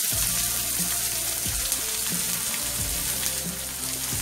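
Freshly added chopped onions sizzling in hot oil in a kadai, a steady frying hiss.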